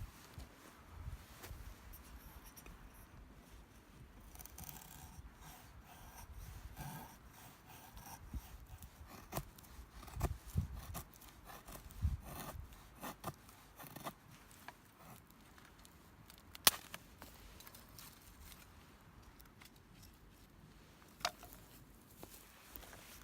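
Small handling noises: rubbing and scraping with scattered clicks and soft thumps, including one sharp click about two-thirds of the way through and another near the end.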